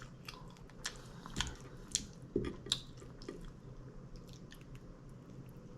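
A person chewing a mouthful of taco salad close to the microphone, with about seven wet mouth clicks and smacks over the first three seconds, then fading to faint quiet chewing.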